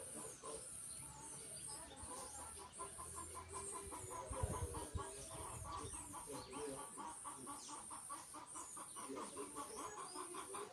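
Chickens clucking in a quick run of short clucks, about five a second, among many short, high, falling peeps. A dull low thump comes about four seconds in.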